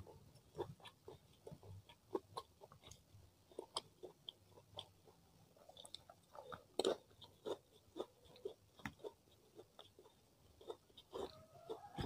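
Close-up mouth sounds of a person chewing rice and grilled chicken: many short, soft wet clicks and smacks at an irregular pace, loudest a little past the middle.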